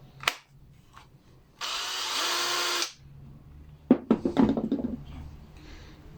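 A cordless Ryobi power tool, powered by a Milwaukee battery through an adapter, runs for about a second and then stops, showing that the adapter works. A click comes before the run, and a short clatter of knocks follows it as the tool is handled.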